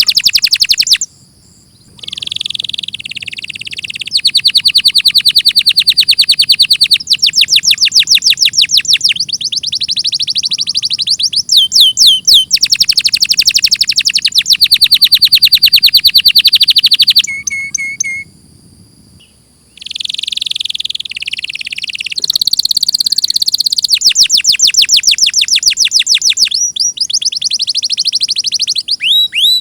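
Domestic canary singing: fast rolling trills of rapidly repeated high notes, run after run with a change of note every few seconds. It breaks off briefly about a second in and again a little past halfway.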